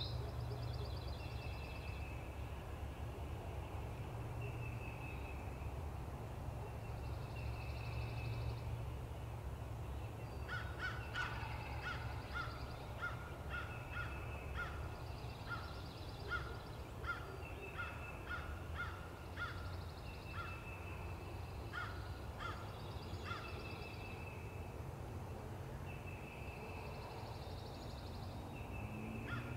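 Birds calling: a songbird repeats a short high phrase every couple of seconds. From about a third of the way in, a long run of short, harsh repeated calls joins it for roughly 14 seconds, over a steady low rumble.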